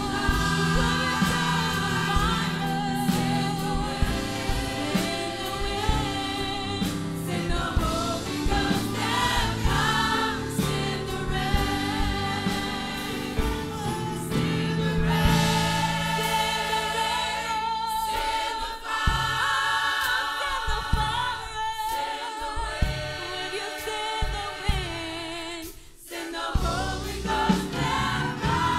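A choir singing a gospel song with instrumental accompaniment, the sound briefly dropping away about 26 seconds in before the music resumes.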